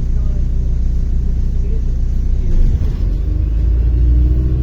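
Interior of a MAZ-105 articulated city bus under way: a steady low engine and road rumble, which grows louder and deeper about halfway through.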